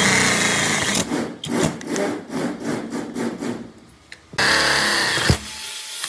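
Workshop tool work: loud rasping bursts of sawing or grinding, with a stretch of uneven back-and-forth scraping strokes between them and a sharp knock near the end.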